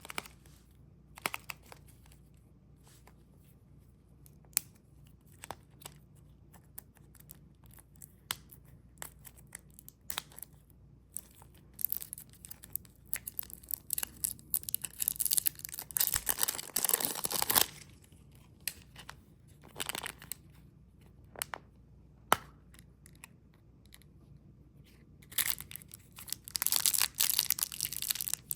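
Candy packaging being torn open and crinkled by hand, with scattered light taps and clicks between two longer stretches of dense tearing and rustling.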